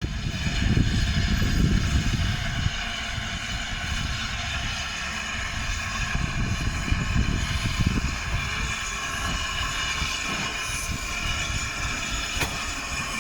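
Steam locomotive Tornado, an LNER Peppercorn A1 Pacific, heard close up: an uneven low rumble with a steady hiss and a set of steady tones above it.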